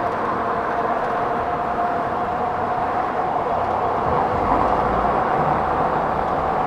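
Wind rush and road noise of a 60-volt e-bike riding fast, with a steady whine running through it.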